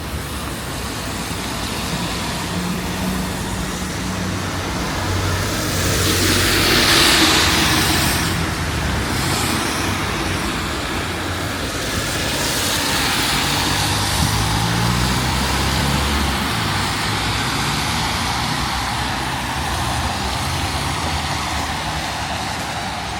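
Street traffic: motor vehicles driving past with a low engine hum and tyre noise. One passes close, swelling loudest about six to eight seconds in, and another passes around twelve to fourteen seconds.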